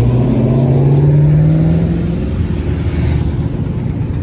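A car engine accelerating, its pitch climbing steadily for about two seconds before it eases off into a lower rumble.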